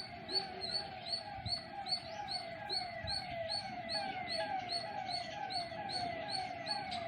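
A bird calling: one short falling note repeated steadily, about two to three times a second, cutting off abruptly at the end.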